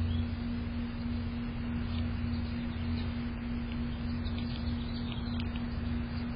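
A steady low hum throughout, with faint, short bird chirps scattered over it, most of them about four to five and a half seconds in.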